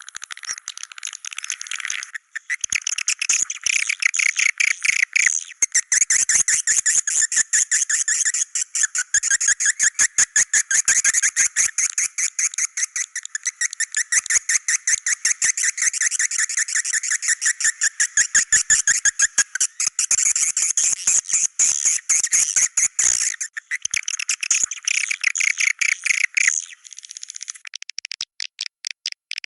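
Swiftlet calls: a dense, fast, high-pitched chattering twitter made of rapid clicking pulses, broken by a few short pauses.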